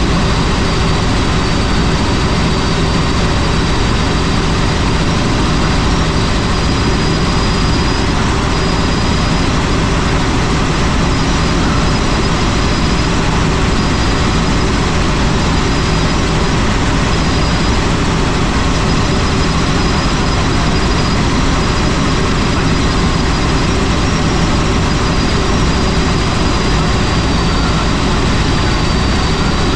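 Helicopter in flight: steady, unbroken engine and rotor noise with low droning tones and a faint high whine above them.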